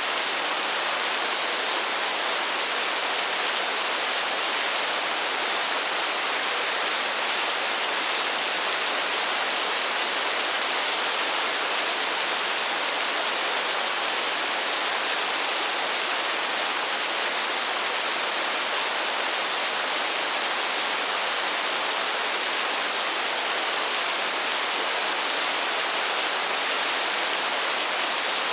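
Heavy rain falling as a steady, even hiss, with no single drops or other sounds standing out.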